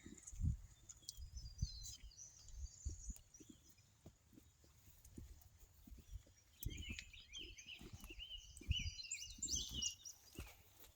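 Small birds chirping and twittering, loudest in the second half, with scattered low thumps and rumbles.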